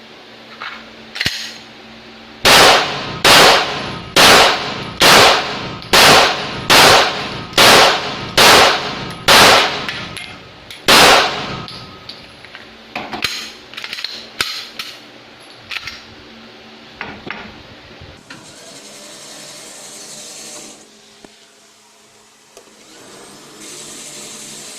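9mm Glock 17 Gen5 pistol fired about ten times in a steady string, roughly one sharp shot a second. Fainter shots follow, then a hiss near the end.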